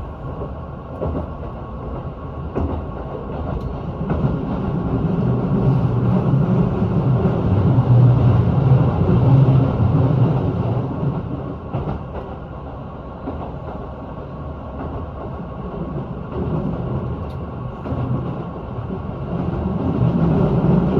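Keihan Railway limited express train running on the line, a steady low rumble with rail noise that swells louder about a third of the way in, eases, and builds again near the end.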